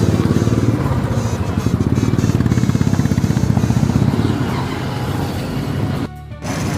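Vehicle engine running on the move through city traffic, a steady low rumble with a fast pulsing beat. The sound drops out briefly near the end.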